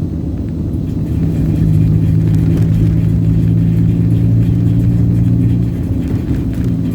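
Motor vehicle in motion, heard from on board: a steady low engine drone over road rumble.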